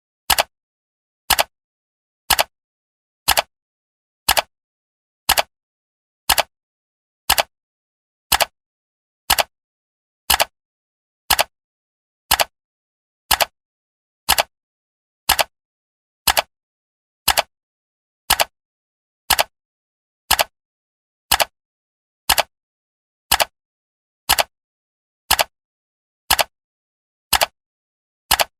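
Clock ticking, one sharp tick each second, evenly spaced with silence between the ticks.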